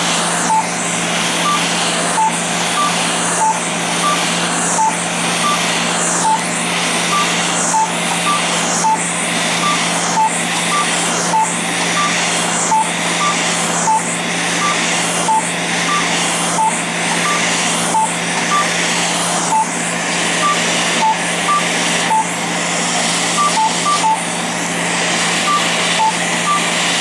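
Fraxel laser handpiece beeping as it fires, short beeps alternating between a lower and a higher tone about one and a half times a second, over the steady rush of the cold-air chiller hose blowing on the skin.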